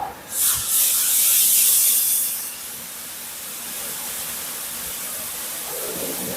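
Automatic car wash equipment giving a loud hissing blast of spray or air for about two seconds, then settling to a steady, quieter rushing noise.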